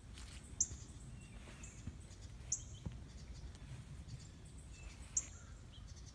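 Quiet outdoor background with a small bird giving short, high chirps about every two and a half seconds, over a low steady rumble.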